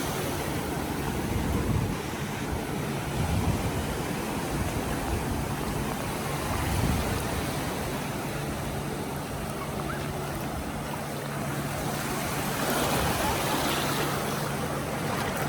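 Ocean surf washing onto the beach, swelling twice as waves come in, with wind buffeting the microphone. A faint steady low hum runs under it in the second half.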